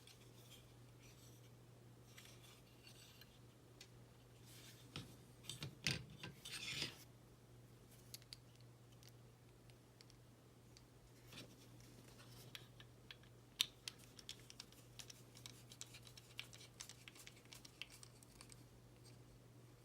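Faint scratching and small clicks of a small hand screwdriver driving tiny screws into plastic scale-model engine parts, a few scrapes about five to seven seconds in and a run of light ticks in the second half, over a low steady hum.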